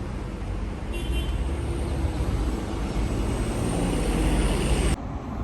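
Road traffic with a large vehicle running close by, a rumble that grows steadily louder with a faint high whine over it, then cuts off suddenly near the end.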